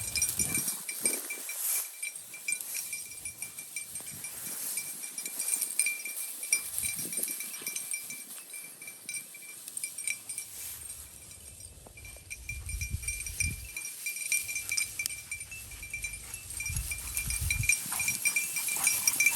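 A hunting dog panting and snuffling while working through cover, over a steady thin ringing tone. Low rumbles of wind or brush come in twice near the end.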